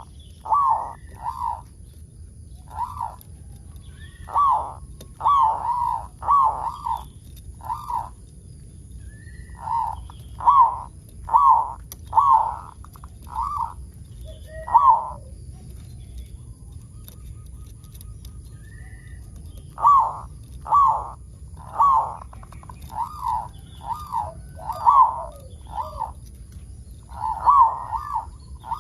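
Zebra dove (perkutut) singing, a string of short cooing notes in repeated phrases with a pause of a few seconds midway.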